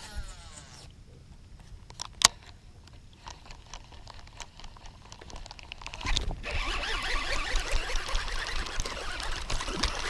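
A sharp click about two seconds in, then from about six seconds a steady crackling splash of water as a small hooked bass thrashes at the surface in shallow, weedy water.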